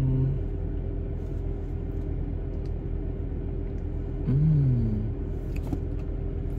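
Steady low rumble of the Chevrolet Camaro SS's idling engine, heard from inside the cabin. About four seconds in, a short falling hummed moan of enjoyment after a sip of the frappuccino through a straw.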